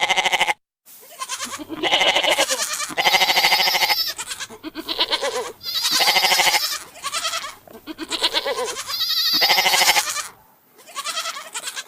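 Goats bleating: a run of about nine wavering calls, one after another, with short pauses between them.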